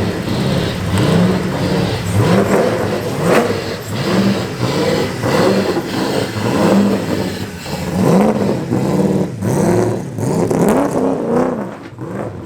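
Car engines of American muscle cars and hot rods being revved again and again in short blips, the pitch climbing and falling back about once a second as the cars drive out.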